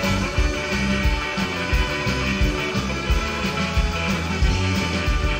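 Rock band playing an instrumental stretch with no vocals, over a steady, driving drum beat.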